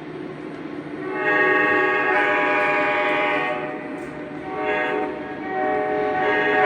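Model train's sound-effects whistle blowing: one long blast, a short blast, then another long blast starting near the end, over a steady running noise.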